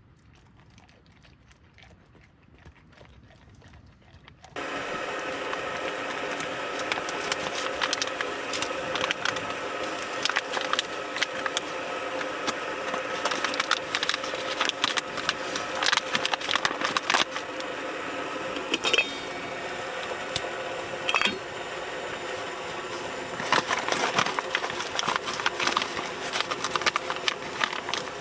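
Faint at first, then about four seconds in a wood fire starts up sharply in a small tent wood stove: a steady rush with many sharp crackles and snaps of burning wood.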